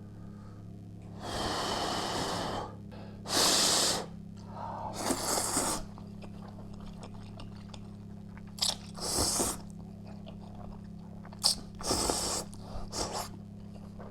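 Close-miked eating of ramen: several loud slurping bursts, the longest about a second and a half, with chewing in between.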